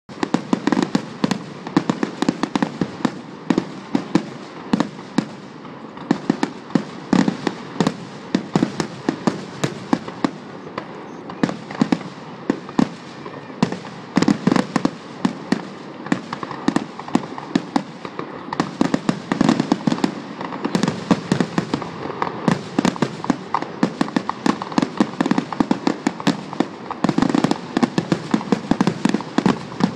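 Fireworks going off: a dense, unbroken run of sharp bangs and crackles, several a second.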